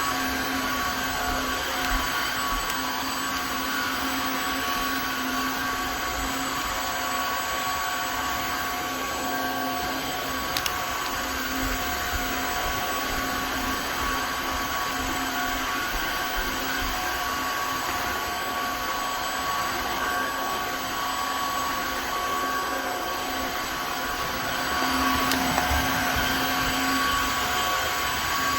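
Tineco Floor ONE S5 cordless wet-dry vacuum mop running steadily as it is pushed over a hard floor: a constant motor hum with a steady whine. It gets slightly louder near the end.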